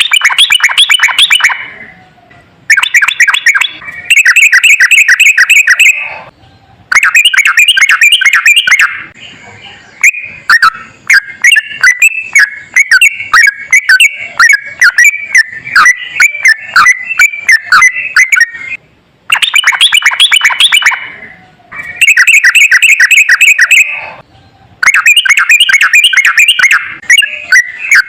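Yellow-vented bulbul singing loud, rapid rolling phrases of quick repeated notes. Most phrases last one to three seconds with short pauses between, and one long unbroken run of warbling fills the middle.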